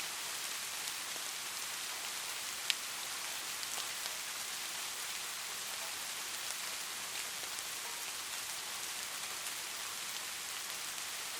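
Light rain falling steadily: an even hiss with scattered drops ticking, one sharper drop about two and a half seconds in.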